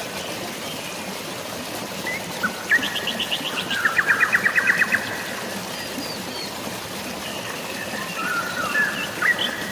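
Songbirds chirping, with a fast trill of about ten quick notes a second a few seconds in and more short calls near the end, over a steady rush of flowing water.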